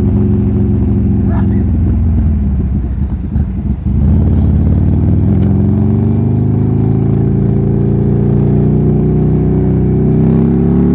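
Buell Lightning XB12S's 1203 cc 45-degree V-twin running through an aftermarket D&D exhaust while riding. The engine runs steadily, then dips raggedly around two to four seconds in as the throttle comes off. From about four seconds in it climbs steadily in pitch as the bike accelerates.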